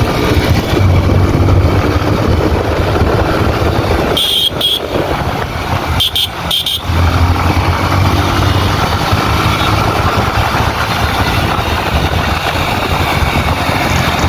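Motorcycle being ridden, its engine running under a heavy rush of wind over the microphone. A horn gives a short double beep about four seconds in and two more beeps around six seconds.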